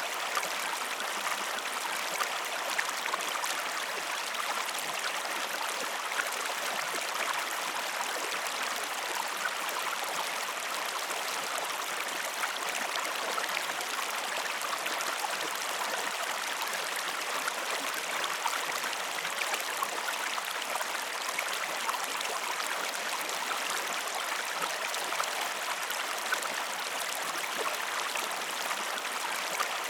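River water flowing steadily, an even rushing babble with small splashes and trickles.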